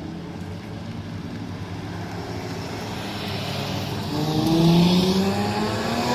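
Car engine running, then accelerating from about four seconds in, its pitch rising steadily as it gets louder.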